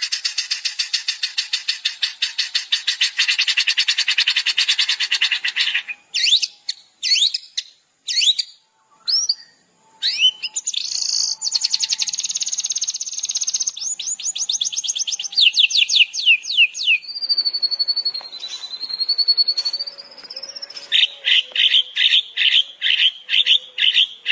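Songbird song from a bird-song tutoring recording: a fast rattling trill for about six seconds, then separate sharp falling whistles, another quick trill and rapid falling notes, a long wavering whistle, and a series of quick paired chips near the end.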